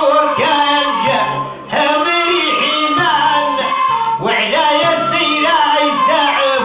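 Traditional Algerian melhoun folk music: an ornamented, wavering melody line in short phrases.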